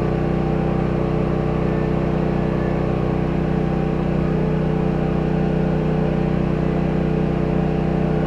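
A steady machine hum that does not change, with a low, even pitch.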